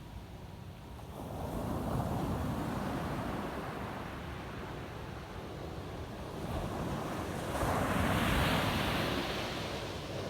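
Ocean surf breaking on a beach: one wave comes in and washes up about a second in, then a second, louder wave crashes near the end and recedes. Wind rumbles on the microphone underneath.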